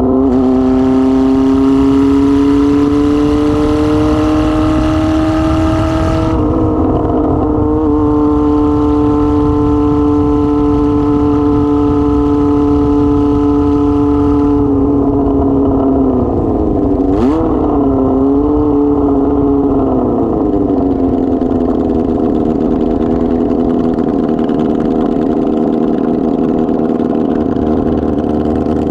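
Kawasaki ZR-7 motorcycle engine running without an exhaust muffler while riding. The engine note climbs slowly, breaks briefly about six seconds in, holds steady, then drops as the bike slows and settles lower near the end. There is one short click partway through.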